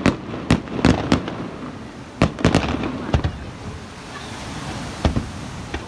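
Aerial fireworks going off: a quick run of sharp bangs in the first three seconds, a softer hissing stretch around four seconds in as new shells rise, then another bang.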